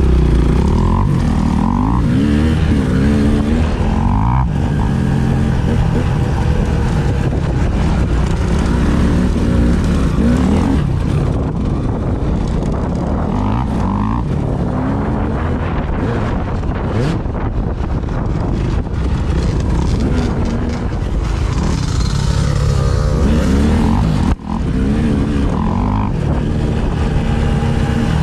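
A vehicle engine under way, its pitch climbing and dropping again and again as it speeds up and eases off, with wind noise rushing over the microphone.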